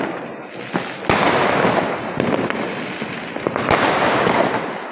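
Fireworks going off: two loud bursts, about a second in and again about three and a half seconds in, each fading out slowly, with small sharp cracks between them.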